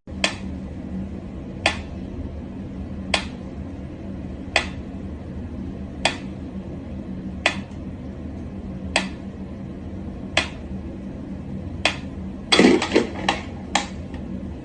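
Sharp clicks or taps on something hard, evenly spaced about one and a half seconds apart, then a quick flurry of several near the end, over a steady low hum.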